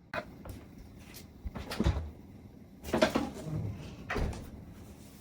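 Kitchen cupboard doors opening and closing, with about five separate knocks and thumps over a few seconds.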